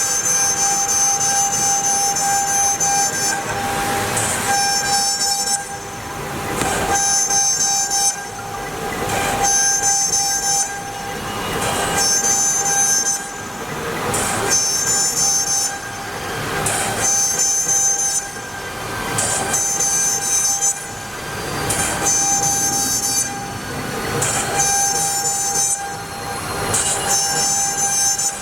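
CNC router's water-cooled spindle running with a steady high whine as the bit cuts MDF. The cutting noise swells and eases about every two and a half seconds as the tool works through the pattern.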